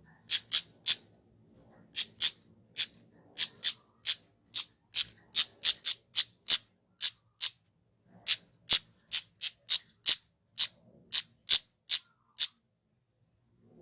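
Kemade flowerpecker giving a rapid series of short, sharp high-pitched call notes, two or three a second, with a brief pause a little past the middle.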